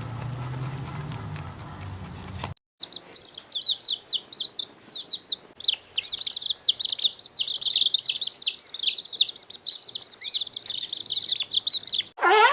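A low rumbling noise for about the first two and a half seconds, then, after a brief break, a dense stream of rapid, high chirps from a group of small birds.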